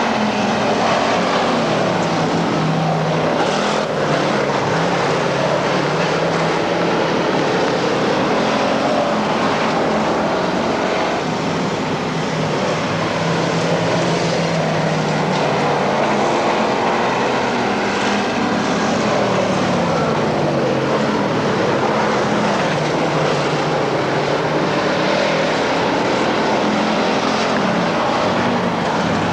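Dirt-track race car engines running at speed, several at once, their pitch rising and falling steadily as the cars circle the track.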